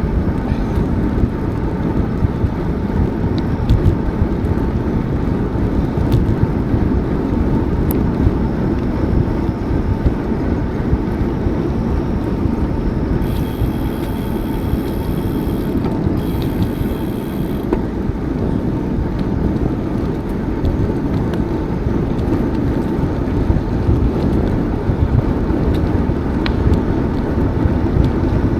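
Wind rumbling on the microphone of a moving bicycle, a steady low noise with no let-up. A faint, high, steady tone sounds twice, briefly, about halfway through.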